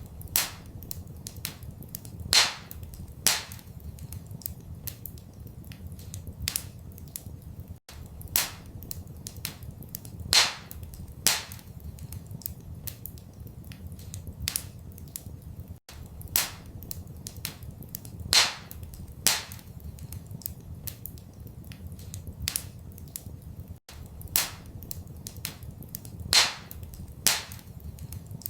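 Wood fire crackling in a fireplace: irregular sharp pops and snaps over a steady low rumble. The same stretch of sound repeats every eight seconds, with a brief dropout at each repeat.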